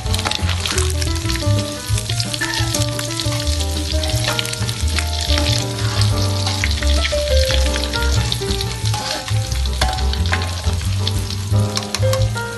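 Hot oil sizzling and crackling as small anchovies deep-fry in a wok, with a metal skimmer stirring and lifting them. Background music plays throughout.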